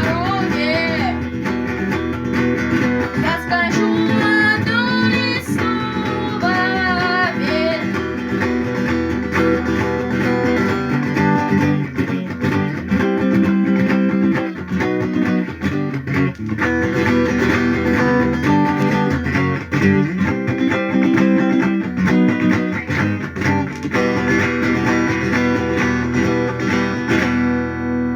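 Acoustic guitar strummed with the percussive muted 'knock' stroke in a gallop rhythm. A voice sings along for roughly the first eight seconds.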